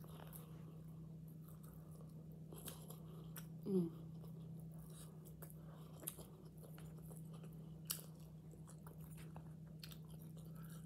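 A person chewing and eating, with wet mouth sounds and a few sharp mouth clicks. A brief falling vocal sound comes about four seconds in. A steady low hum runs underneath.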